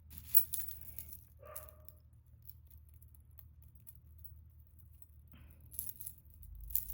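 Small clicks and rustles of costume jewelry being handled and sorted, with light taps near the start and again toward the end.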